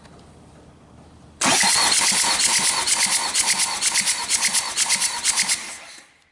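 Hyundai D4DA diesel engine cranked by its starter motor for a compression test, with an even pulse from each compression stroke. It starts about a second and a half in and stops shortly before the end.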